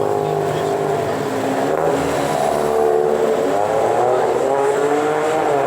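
Car engine accelerating with a loud exhaust note, its pitch wavering up and down as it goes through the revs, loud throughout and fading just after.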